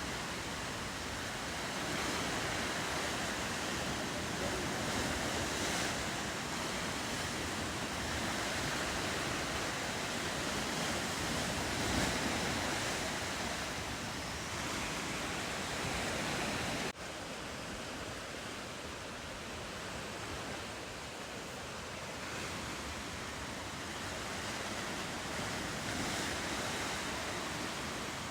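Steady wash of ocean waves and surf, with wind. About two-thirds of the way through, the sound breaks off for an instant and comes back a little quieter.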